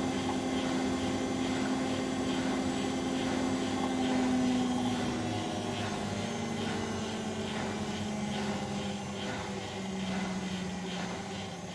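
Bosch Maxx WFL 248Y washing machine's motor and drum spinning, the hum slowly falling in pitch as the spin slows down. Faint regular ticks come in over the second half.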